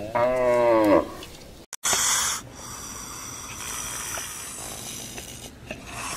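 A dairy cow mooing once, a call of about a second that rises and then falls in pitch. After a short break it gives way to a brief burst of noise, then a steady faint hiss.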